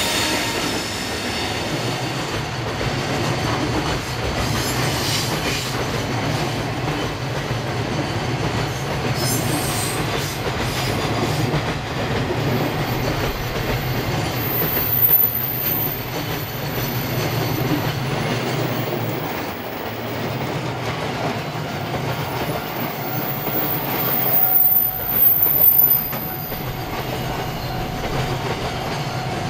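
Freight train's container flatcars rolling past with a steady rumble and clatter of wheels over the rails. A thin high wheel squeal rises briefly about halfway through and again a little later, as the wheels take the curve.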